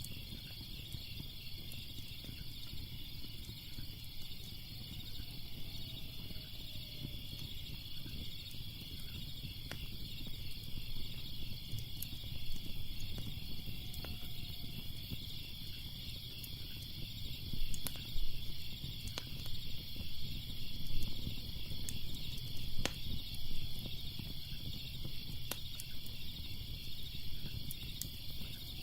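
Crickets chirping in a steady pulsing chorus, with scattered sharp pops and cracks of a crackling fire over a low rumble.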